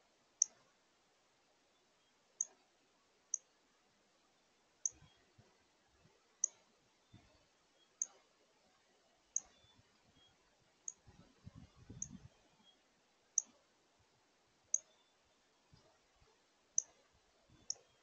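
A bird's short, sharp high chip notes, repeated irregularly about once every second or so. A few soft low knocks come about eleven seconds in.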